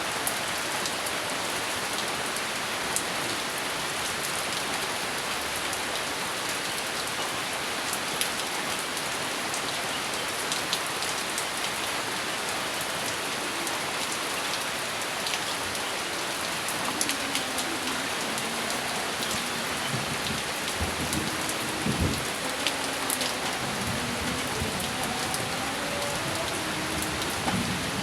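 Steady rain falling hard, a dense hiss with scattered sharp drop ticks. Thunder rumbles low in the second half, strongest about two-thirds of the way in.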